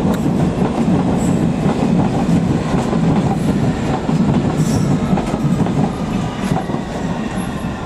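London Underground S7 stock train pulling into the platform: a loud, steady rumble of steel wheels on the rails.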